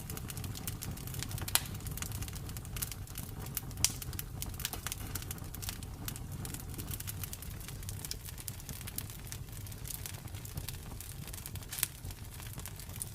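Campfire burning, wood crackling with a dense patter of small snaps and a few louder pops over a low steady rumble of the flames.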